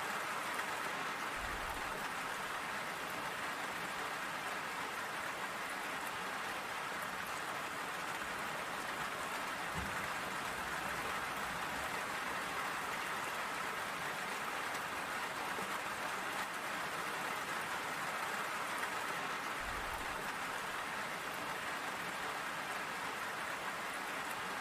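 Steady rain falling, an even hiss of many drops landing on surfaces.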